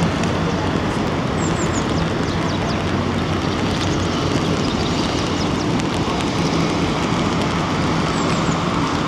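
Steady rushing noise of wind and rain with a low hum underneath, and two brief groups of quick high chirps, about a second and a half in and near the end.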